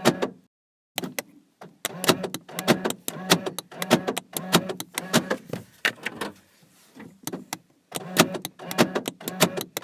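Rapid clicking in quick runs of several clicks a second, broken by a short silent gap about half a second in and a quieter stretch around six to seven seconds.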